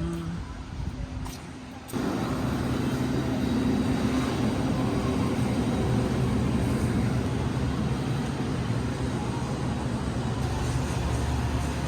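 Steady vehicle rumble with a low hum, starting abruptly about two seconds in.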